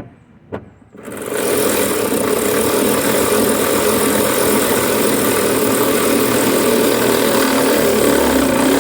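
A power tool runs steadily and loudly for about eight seconds, switching on abruptly about a second in and cutting off sharply.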